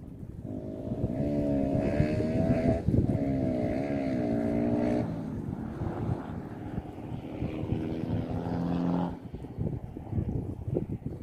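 An engine running with a steady pitched hum that wavers in pitch a couple of times, drops lower about halfway through and cuts out shortly before the end. Wind buffets the microphone throughout.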